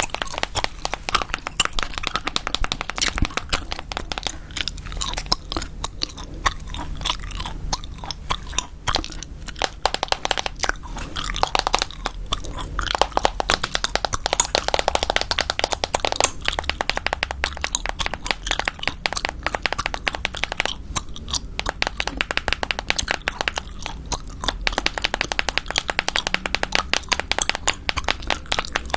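Close-miked gum chewing: a rapid, continuous run of wet smacks and clicks.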